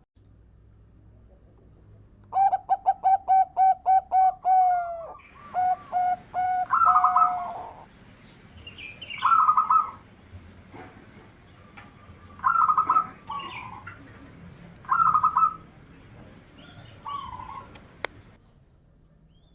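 Zebra dove (perkutut) cooing: a quick run of about ten short, evenly spaced notes about two seconds in, then shorter coo phrases repeated every two to three seconds.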